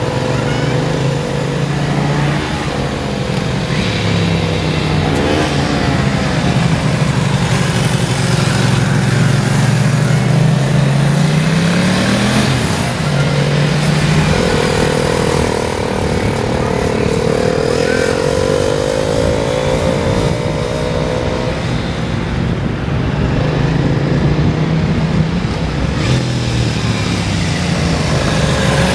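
Motorcycle engine running at low speed, its pitch rising and falling as the throttle is opened and closed, with a rev climbing about twelve seconds in.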